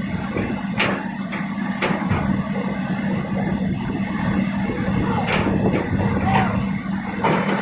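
Excavator diesel engine running steadily, with a few sharp knocks about a second in, two seconds in and past the middle.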